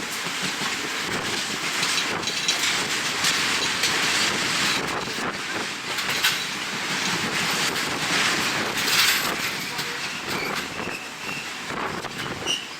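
Wind buffeting the microphone at a moving passenger train's window, over the rumble and clatter of the carriage running on the rails.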